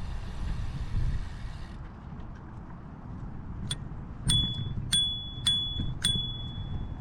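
Bicycle bell rung about five times in quick succession, each strike leaving a short ringing tone, over low wind and tyre rumble from the moving bike.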